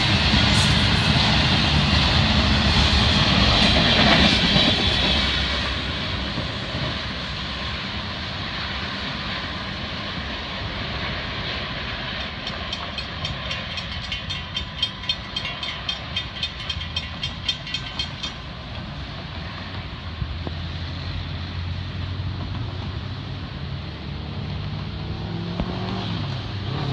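Intermodal freight cars rolling past on the rails, fading after about five seconds as the end of the train goes by. Midway a grade-crossing bell rings about twice a second for several seconds while the gates rise, then stops, and near the end road vehicles drive over the crossing, one speeding up.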